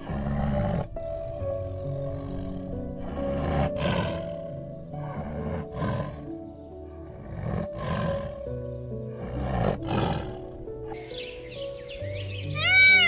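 Harsh, noisy calls from a large animal, repeated every one to two seconds over background music with held notes; a run of loud high-pitched calls begins near the end.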